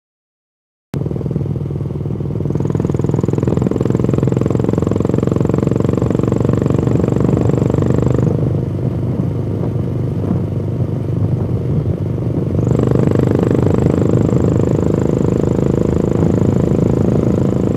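Harley-Davidson Street 750's V-twin engine and exhaust running under way. It starts abruptly about a second in, swells for two stretches with a faint high whine, and eases off in between.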